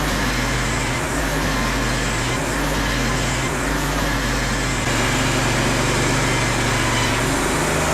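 An engine running steadily, its pitch and level stepping up slightly about five seconds in.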